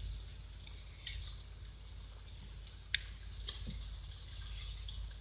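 A few scattered drips and short sharp taps from light sprinkling rain, over a steady low hum and a faint high hiss.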